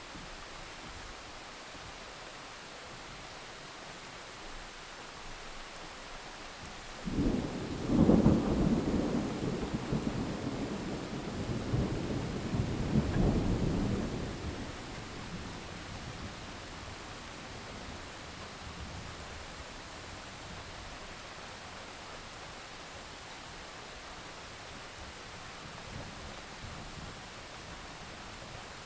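Steady rain with a roll of thunder that breaks in sharply about seven seconds in, rumbles loudly for several seconds with a second swell, and dies away, leaving the rain.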